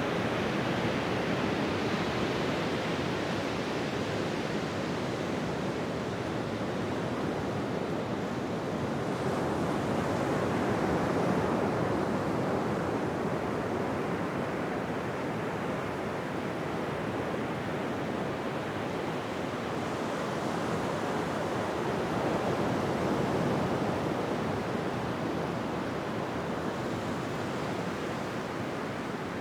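Ocean surf on a beach: a continuous rush of waves breaking and washing in, swelling gently a little after ten seconds in and again a little before the end.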